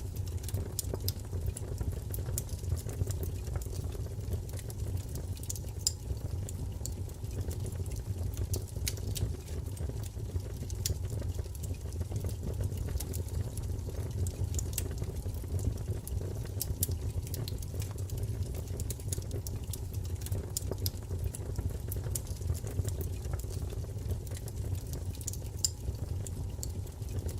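Wood fire burning in a fireplace: a steady low rumble of flames with irregular crackles and pops throughout.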